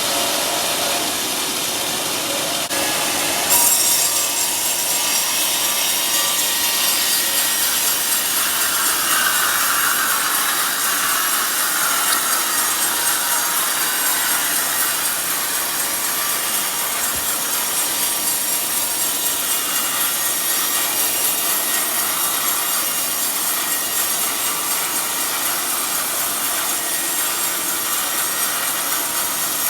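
A sawmill blade cutting steadily through a teak log, with a continuous sawing noise that gets louder about three and a half seconds in.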